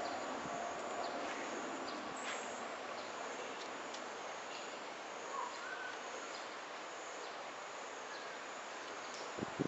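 Steady outdoor garden ambience with a few short bird chirps, one a brief whistled note about halfway through. Two short knocks near the end.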